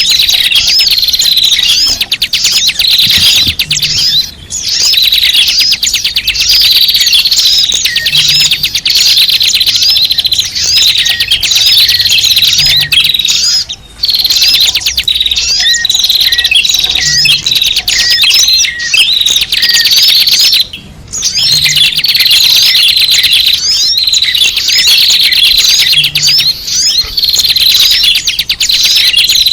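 A dense chorus of many small birds chirping and twittering together without pause, a noisy flock recording used as a lure call to attract birds. It breaks off briefly three times, about 4, 14 and 21 seconds in.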